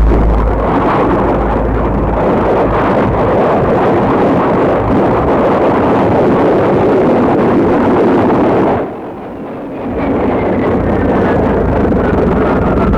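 Jet aircraft passing overhead, a loud rushing roar. It drops away briefly about nine seconds in, then comes back with a high whine that falls slowly in pitch.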